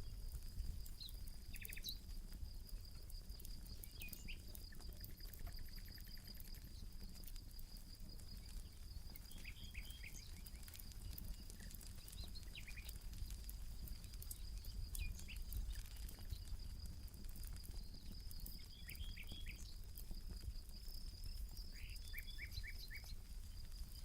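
Campfire crackling faintly with scattered sharp pops, while birds call in short groups of three or four quick chirps, a few times. A steady high-pitched trill runs underneath.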